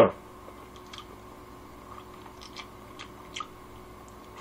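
Quiet chewing of a mouthful of noodles, with a few faint, scattered clicks.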